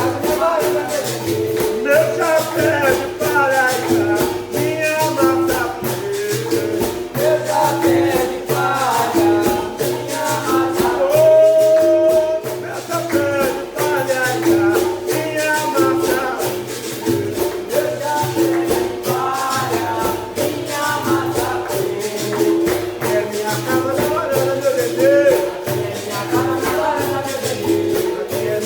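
Capoeira music: berimbaus with caxixi rattles keeping a fast shaken rhythm, a pandeiro, and voices singing over it.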